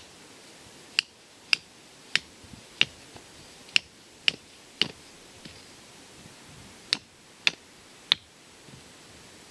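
Tent pegs being hammered into the ground through a wooden board: about ten sharp strikes, roughly two a second, with a pause of about two seconds midway.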